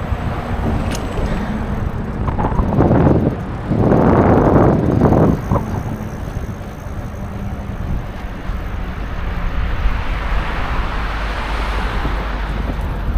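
Wind rumbling on the microphone of a moving bicycle, with two strong surges between about three and six seconds in and a rushing hiss that swells and fades later on.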